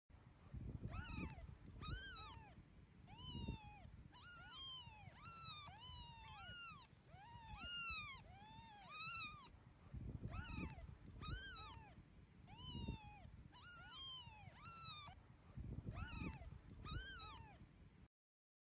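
Kitten meowing again and again, about one high, rising-and-falling mew a second, over faint low rumbling. The mewing stops abruptly near the end.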